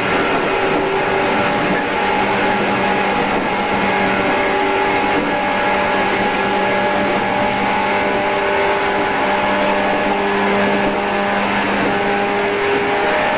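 JR East 113 series electric train running at a steady speed: wheel and rail rolling noise with a steady, unchanging hum from the motors and gears, recorded on cassette tape.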